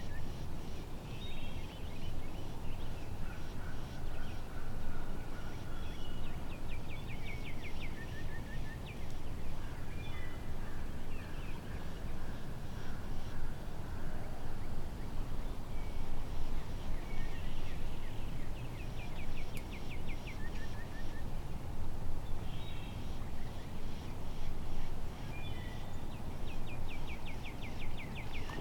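Birds calling over a steady low rumble of wind: a rapid, high trill-like series of notes repeats about every nine seconds, with scattered short chirps between.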